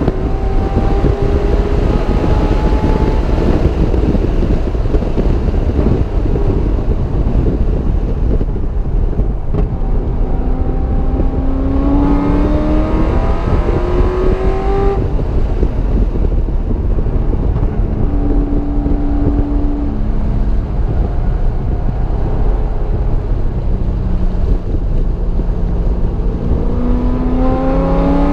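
Car engine driven hard on a race track, accelerating and easing off, over a constant heavy rumble of wind and road noise. The engine pitch climbs about halfway through and again near the end, holding steady for a couple of seconds in between.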